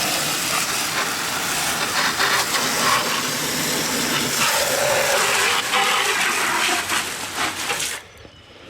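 Garden hose spray nozzle blasting water against a lawnmower deck, a steady loud hiss that cuts off abruptly near the end.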